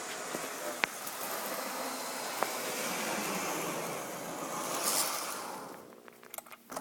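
Lionel HHP-8 Amtrak model locomotive running with a steady whirring, hissing noise, the abnormal noise of a faulty unit. A sharp click comes about a second in and another about two and a half seconds in, and the noise fades and breaks up near the end.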